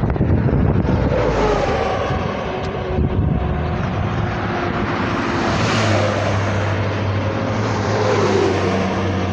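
Motor vehicle engine and road noise. The engine's pitch falls a couple of seconds in and rises again near the end, and a steady low hum joins about halfway through.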